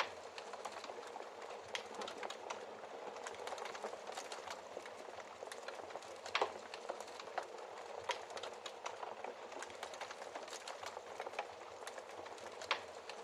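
Wood fire in a fireplace crackling: a steady hiss with frequent small pops and snaps, and two louder pops, one about six seconds in and one near the end.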